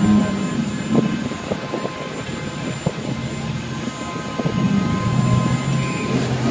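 Car engine running, a steady low drone with a few short clicks over it.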